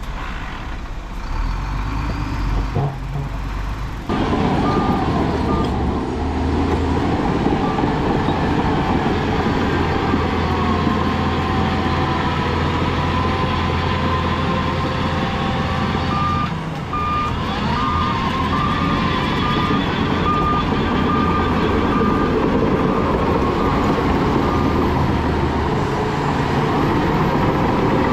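Heavy diesel earthmoving machinery running under load, with a reversing alarm beeping a little under once a second through much of it. The engine gets louder about four seconds in.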